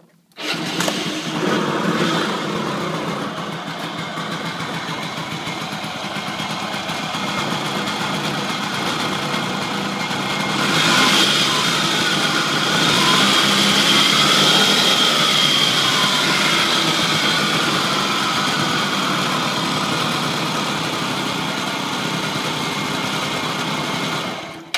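Honda Lead 100 scooter's two-stroke engine starting about half a second in and running, speeding up around the middle with a slowly rising and falling pitch, then stopping abruptly near the end. It carries an abnormal engine noise that the owner suspects is the start of the model's well-known chronic fault.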